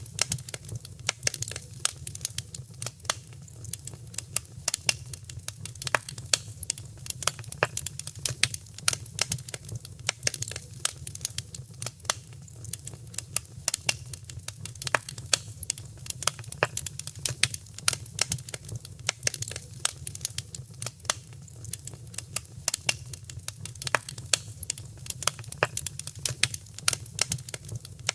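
Wood fire crackling steadily in a fireplace, with many irregular sharp pops and snaps over a low, even rumble of the burning.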